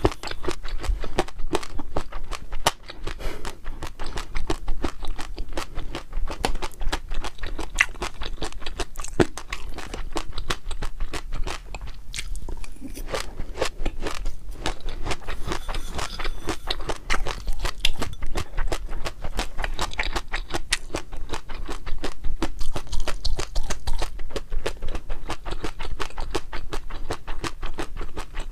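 Close-miked chewing and crunching of food in the mouth, a dense run of irregular crisp clicks and crackles.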